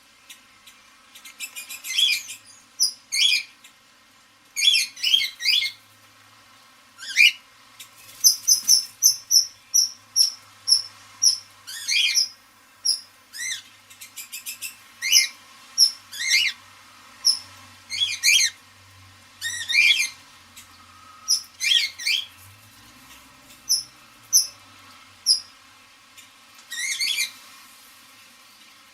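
Parrots calling: repeated short, high-pitched chirps and quick whistled sweeps, coming in clusters about every second or two.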